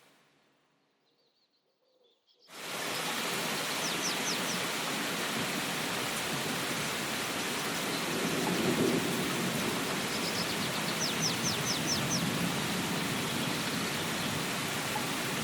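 Steady heavy rain that cuts in abruptly about two and a half seconds in, after a near-silent fade. A bird chirps in quick runs of short notes twice, and a low rumble of thunder swells about halfway through.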